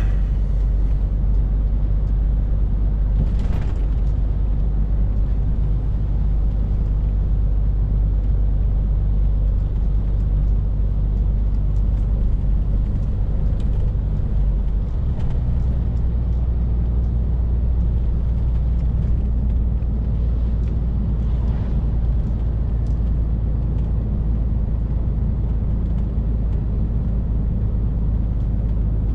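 Scania R450 lorry driving along, its engine giving a steady low drone with road noise. The engine note shifts about halfway through, and there are a couple of faint knocks.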